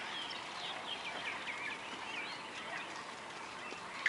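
Several birds chirping and calling over one another, a continuous stream of short, quick whistled notes that rise and fall, over a faint outdoor background hiss.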